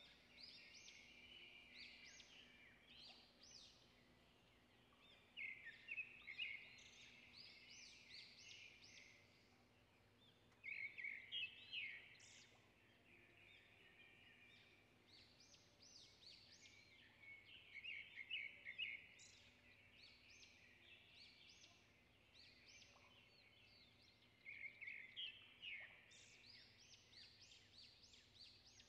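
Small songbird singing quietly in bursts of quick twittering notes, five phrases of a few seconds each, over a faint steady hum.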